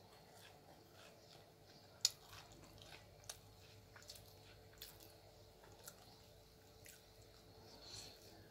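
Faint eating sounds: soft chewing of uthappa and coconut chutney with small wet mouth clicks, one sharper click about two seconds in.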